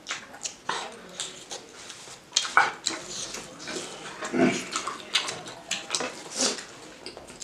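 Close-up wet mouth sounds of people eating curry and rice with their hands: open-mouthed chewing and lip smacks in an irregular run of clicks and squelches, with a louder mouth sound about four and a half seconds in.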